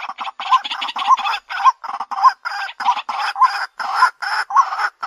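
White-breasted waterhen calling over and over, a rhythmic series of harsh calls about every half second or so, each with a short note that rises and falls.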